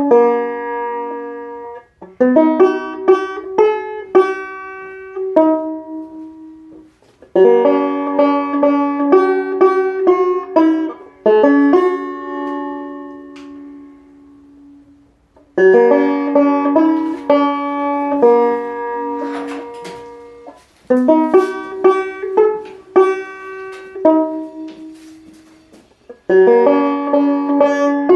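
Music: a plucked string instrument picked in quick phrases of ringing, decaying notes, broken by short pauses every several seconds.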